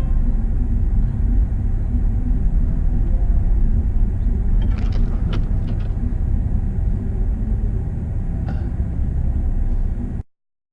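Vehicle driving on a rough ranch road: a steady low rumble with a few short rattles about halfway through and once more later. The sound cuts off abruptly near the end.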